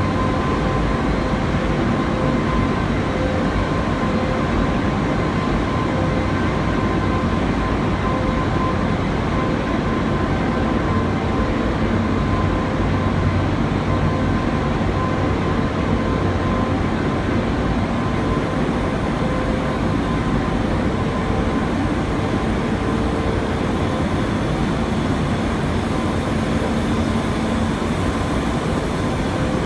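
A 45-ton horizontal industrial furnace in operation: a steady, even roar with a low hum and a few faint steady tones, no pauses or changes.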